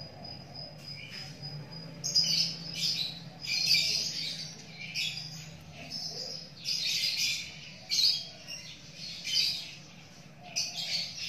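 Small birds chirping in quick clusters of short high calls, starting about two seconds in, over a faint steady low hum. Before the chirping, a thin steady high-pitched trill.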